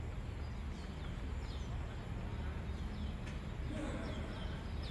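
A bird repeating short, sharp, falling chirps, about two a second, over a steady low rumble. A single sharp knock sounds about three seconds in.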